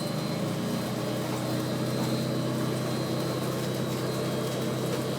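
Steady drone of running machinery: a constant low hum with its overtones and a faint high whine, holding an even level throughout.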